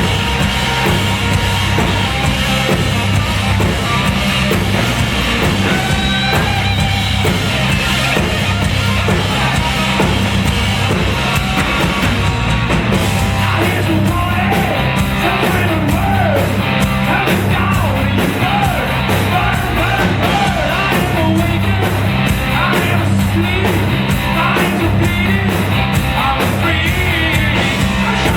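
Live hard rock band playing loud, distorted electric guitars, bass and drums with a steady beat, a singer's voice coming in after about 13 seconds.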